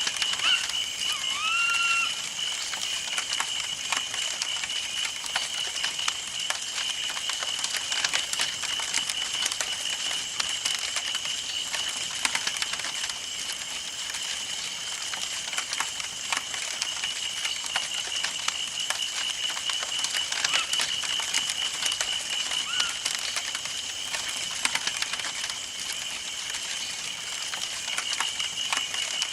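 Wood campfire burning, with frequent sharp crackles and pops over a steady hiss, and a steady high whine underneath. A bird gives a short rising call about a second in.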